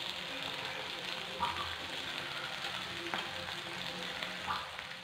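Spiced plantain slices sizzling as they shallow-fry in oil in a nonstick pan, with three short clicks of a spoon against the pan as the slices are turned over.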